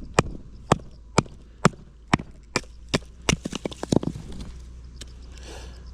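Batoning firewood: a wooden baton knocks a knife spine into a log, about two sharp wooden strikes a second, then a quicker run of lighter taps as the split opens. A short splintering rasp comes near the end.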